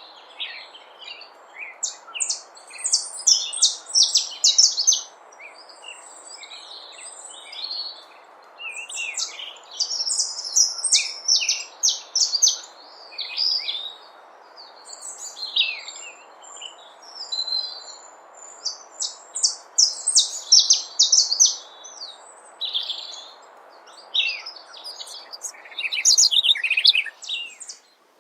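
Birds singing: clusters of rapid high chirps and trills in bursts every few seconds, over a steady background hiss. The recording cuts off suddenly at the very end.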